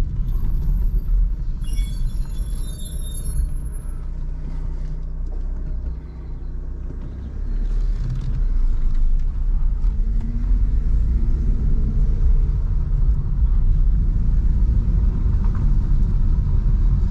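BMW 316i E46 on the move: a steady low rumble of its four-cylinder petrol engine and the tyres. The rumble drops briefly about six seconds in, then builds again.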